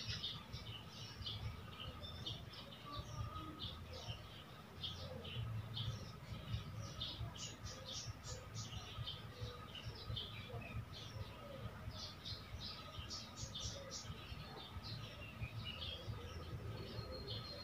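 Faint, busy chirping of small birds, many short calls a second with no pause, over a low background rumble.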